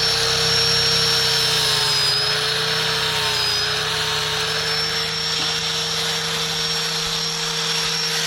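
Electric grinder running steadily with a hiss, its motor tone wavering slightly, while working the steel of a golok blade cut from a chainsaw bar.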